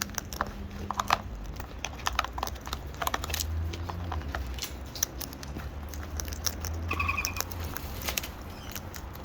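Birds cracking and crunching seed, with a scatter of irregular sharp clicks and crackles from beaks on husks and the container. A short bird call comes about seven seconds in.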